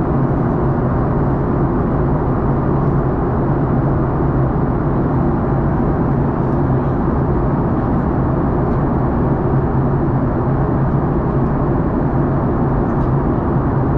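Steady cabin drone of a Boeing 737-800 in flight, heard from inside the cabin: engine and airflow noise with a constant low hum.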